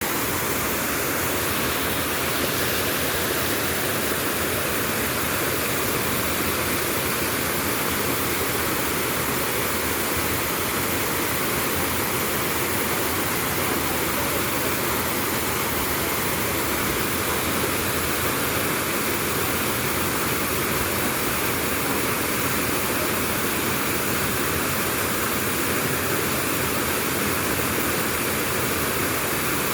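Waterfall: water falling and splashing in a steady, loud rush that does not change.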